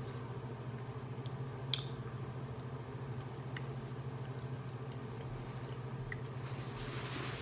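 Close-up soft chewing and mouth sounds of someone eating macaroni and cheese, over a steady low hum, with one sharp click a little under two seconds in.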